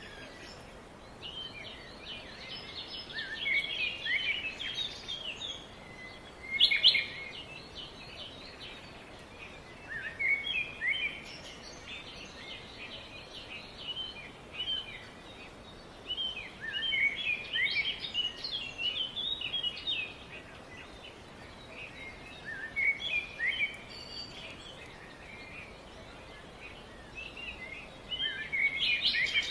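Small birds chirping and twittering in quick bursts every few seconds over a faint steady background hiss, with one sharp, louder note about seven seconds in.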